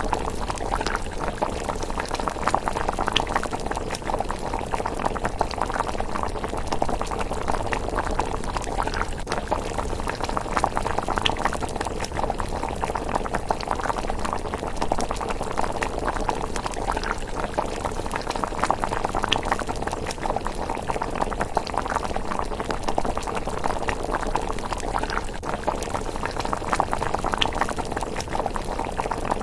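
Pot of miso rice porridge simmering, a steady, thick bubbling with many small pops.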